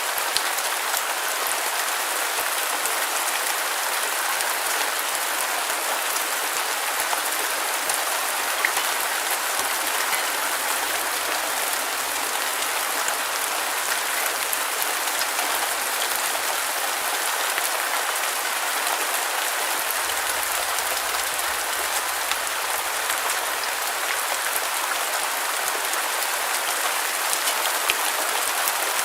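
Steady rain falling on a surface, an even hiss of many small drops with faint scattered patters and no let-up.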